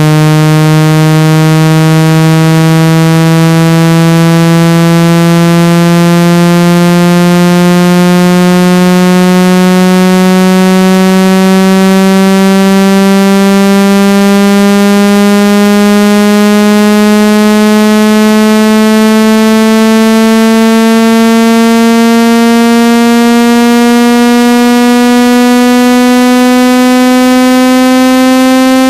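Loud synthetic buzzing tone rich in overtones, gliding slowly and steadily upward in pitch: a speaker water-ejection sweep, played through a phone speaker to vibrate trapped water out of the speaker or earpiece.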